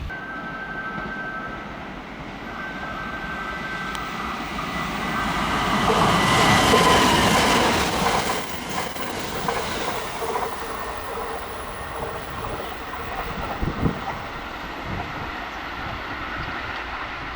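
Kintetsu electric train running past, loudest about six to eight seconds in, with the clack of wheels over rail joints and a steady high whine.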